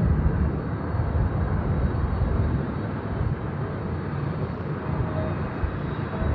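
Boeing 777 jet engines, a steady low rumble with rushing noise as the airliner comes in to land.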